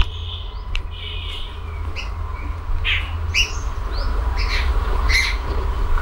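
Birds chirping: a string of short, separate calls, with one longer held call in the first second and a half. Beneath them run the faint steady rush of a small stream and a low rumble.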